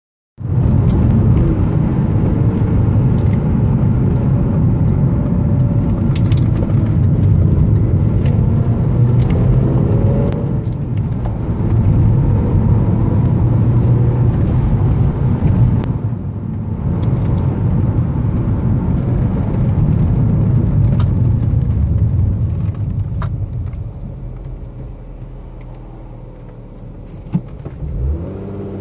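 BMW E36 M3 Evolution's straight-six engine running as the car is driven, its note rising as it accelerates, with two brief dips about a third and halfway through. Near the end it settles to a quieter, lower note, with one sharp click shortly before the end.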